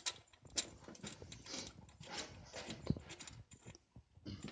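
Irregular clicks, taps and scrapes of hand tools working on a V8's spark plugs under the hood.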